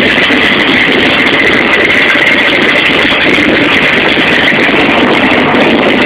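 Built 406 cubic inch small-block Chevy V8 with a lumpy roller cam, running steadily and loud with no revving.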